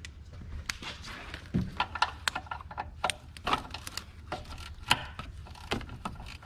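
Irregular metallic clicks, taps and clinks of hand tools on car engine parts as a 10 mm fastener is worked loose, some of them ringing briefly.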